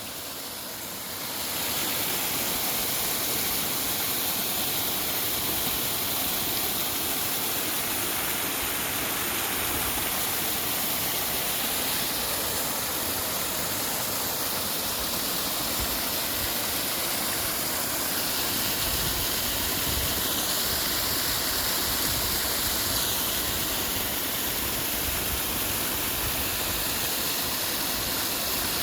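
Rushing water of a mountain stream, a steady even hiss that rises over the first second or two and then holds.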